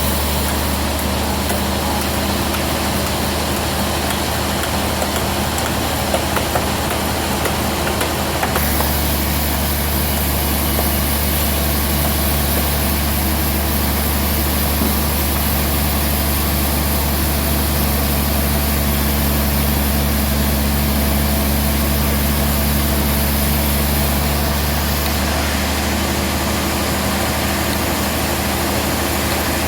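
Band sawmill running steadily with a constant machine hum. About eight seconds in its low hum grows heavier, and it eases back near the end.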